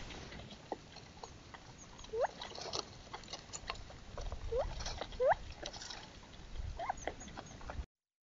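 An animal giving several short squeaky calls that each sweep upward in pitch, among scattered small clicks, heard through a trail camera's microphone.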